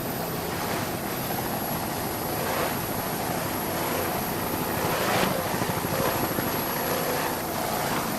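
Helicopter flying, a steady rotor and engine drone that swells slightly about five seconds in.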